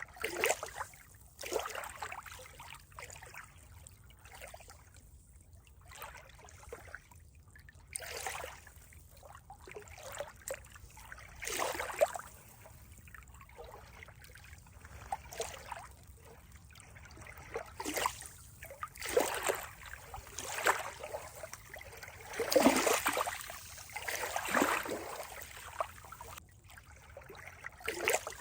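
Water trickling and gurgling in uneven surges, with a few louder splashes about two thirds of the way in.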